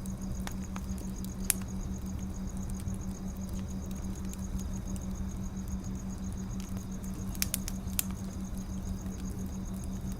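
Wood fire crackling: scattered sharp pops over a steady low hum, the loudest about one and a half seconds in and a few close together near eight seconds.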